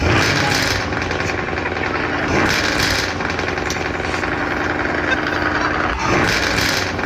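A vehicle engine running with a steady, rattling note, and three louder surges: at the start, about two and a half seconds in, and about six seconds in.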